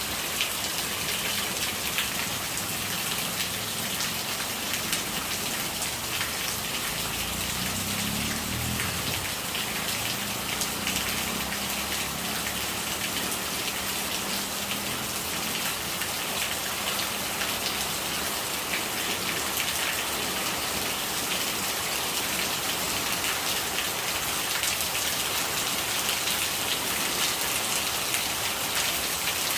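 Steady rain, a dense patter of drops striking a surface, with rainwater gurgling as it runs.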